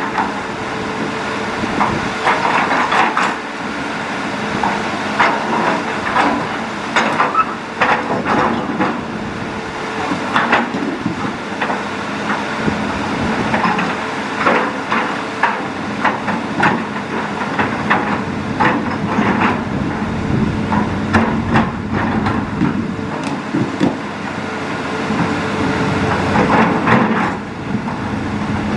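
Hitachi Zaxis hydraulic excavator running steadily while it works, with frequent irregular knocks and clanks as its bucket scrapes and digs through stony riverbed material.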